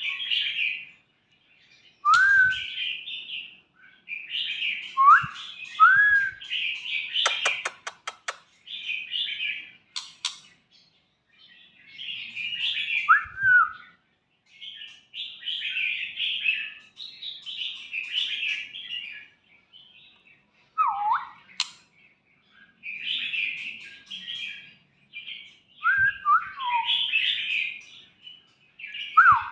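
White-rumped shama chicks calling in repeated buzzy chirping bursts, mixed with short, sharp whistled notes that slide in pitch. A few clicks come about seven seconds in.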